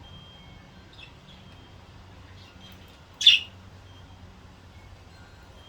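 Pet budgerigars chirping softly, with one short, loud, sharp call about three seconds in.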